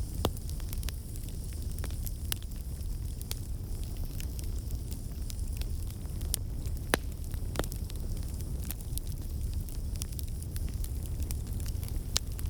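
Wood fire in a fireplace crackling: a steady low rumble with irregular sharp pops and snaps, a few of them louder than the rest.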